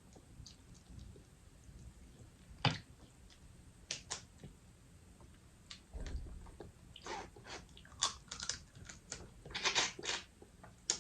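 A person chewing seafood close to the microphone, with scattered wet clicks and smacks. A sharp click comes about three seconds in and a busier run of them near the end.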